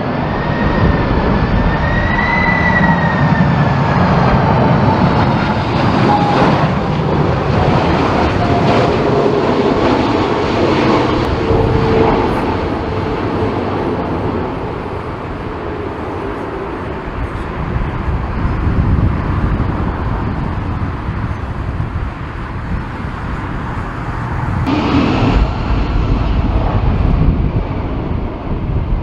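Boeing 747 jet engines whining as the jumbo passes on approach in a strong crosswind, with heavy wind rumble on the microphone. The high engine whine bends in pitch during the first several seconds, then fades into the rumble.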